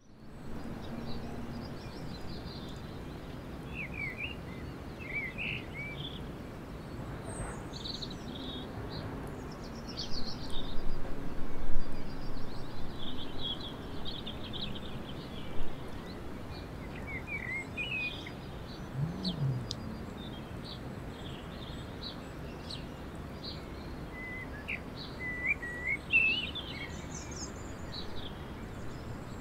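Small birds chirping and trilling in short phrases at intervals over a steady low rush of outdoor background noise, which swells louder for a couple of seconds about ten seconds in.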